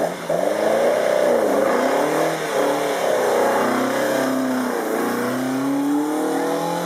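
A classic Alfa Romeo race car's engine accelerating hard. Its pitch climbs, drops briefly at gear changes about a second and a half, two and a half and five seconds in, then climbs again.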